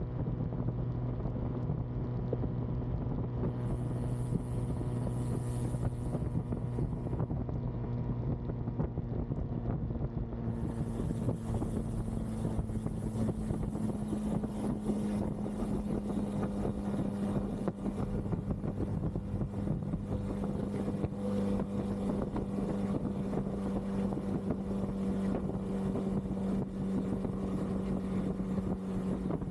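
Bajaj Pulsar N250's single-cylinder engine running at a steady cruise, its note rising slightly in pitch about halfway through, with wind rushing over the microphone.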